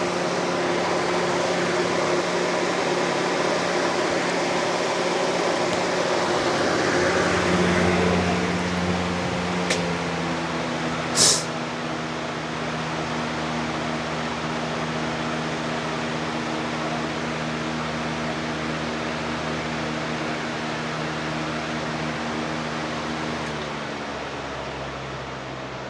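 Lasko B20200 box fan running with a steady motor hum and air rush, its blade badly out of balance because part of it is broken off. The hum's tones shift about eight to ten seconds in. A click and a short hiss follow.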